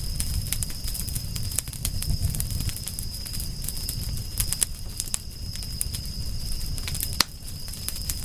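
Wood fire crackling: a low rumble of flames with frequent sharp pops and snaps, one louder pop about seven seconds in, over a steady high-pitched tone.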